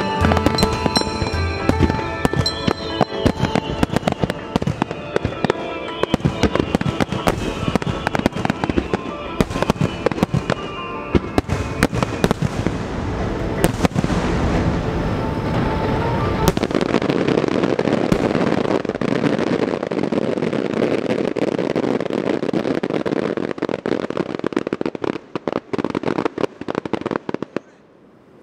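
Aerial fireworks: rapid bangs and crackling from many shells bursting at once, with music playing underneath, thinning to scattered cracks and fading out near the end as the display dies away.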